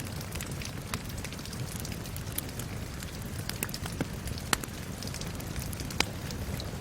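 Crackling wood fire with sharp pops every second or so, the loudest about four and a half and six seconds in, over a steady patter of rain.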